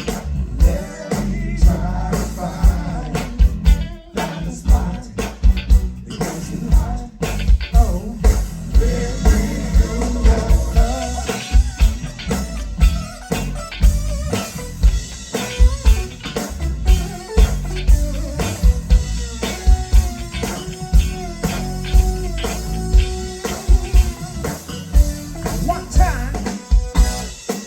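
Live funk band playing a steady groove with a heavy bass and drum beat and guitar, with some singing.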